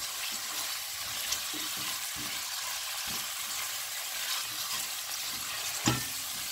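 Diced squash, chopped peppers and herbs sizzling in oil in a pot as a silicone spatula stirs them, with soft scrapes and taps throughout and one sharper knock near the end.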